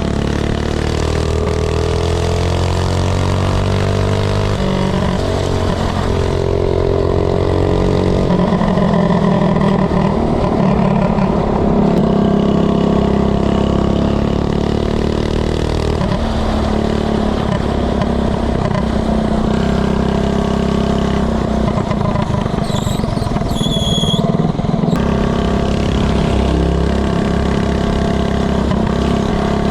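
Small gas minibike engine running, its pitch rising and falling as it is revved and eased off. Two brief high-pitched squeals come about two-thirds of the way through.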